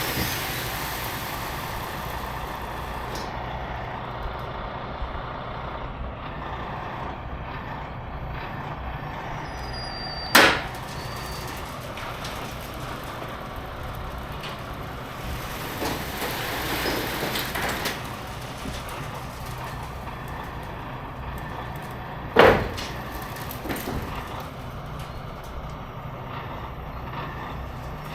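Heavy-duty tow trucks' diesel engines running steadily in a low rumble, with two loud sharp bangs, about ten and twenty-two seconds in.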